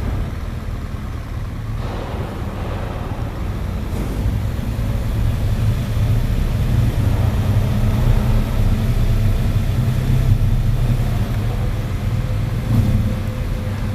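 Motorcycle engine running at low speed, a steady low rumble that grows a little stronger midway.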